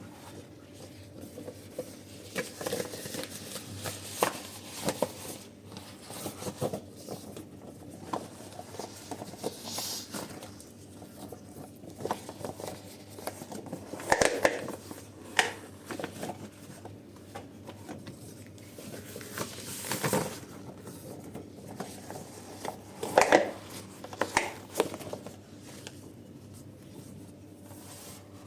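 Dishes and utensils being handled while washing up: scattered clinks, knocks and scrapes, with a few louder clatters about halfway through and again later on.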